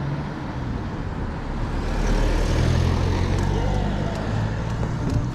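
Road traffic noise: a motor vehicle goes by, swelling about two seconds in and fading away, over a steady low hum.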